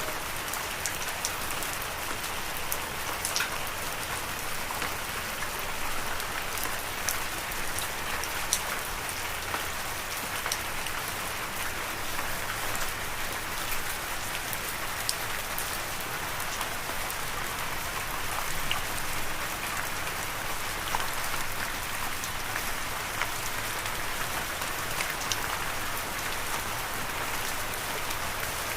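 Steady rain falling, a continuous patter with scattered sharper drips.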